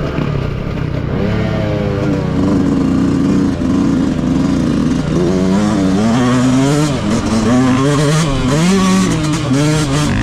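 Stock Yamaha YZ125 two-stroke single being ridden off-road, the engine holding fairly steady revs at first and then revving up and down quickly and repeatedly through the second half.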